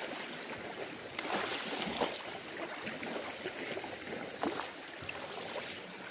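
Lake water splashing and lapping around a kayak, with a few louder splashes about a second and a half in and again near four and a half seconds.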